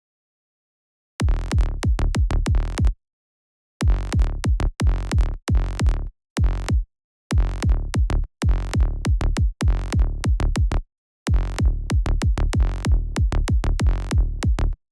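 Electronic kick drum and synthesized bass pattern, played in short bursts that stop abruptly and restart, with silent gaps between them.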